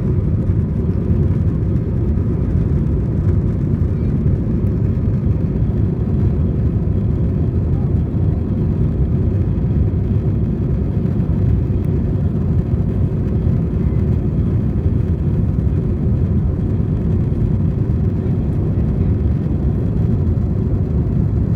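Steady low rumble of jet engines and cabin air inside an Airbus A320 cabin, even and unchanging throughout.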